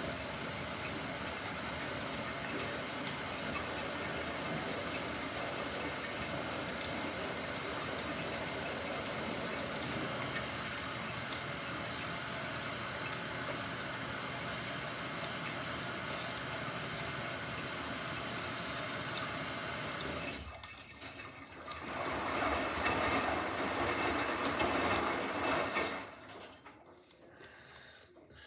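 Water running steadily into a washing machine. It breaks off about 20 seconds in, comes back louder for a few seconds, then dies away near the end.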